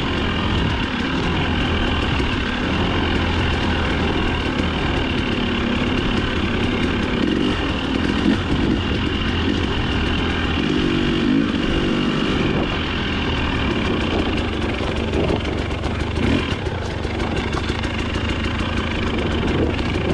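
Dirt bike engine running under load on an off-road course, its revs rising and falling with the throttle.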